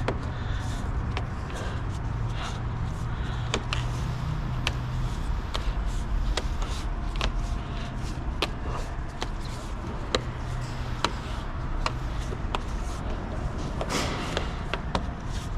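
Scattered light clicks and taps of plastic clips and underbody panels being handled and pressed into place, over a steady low hum.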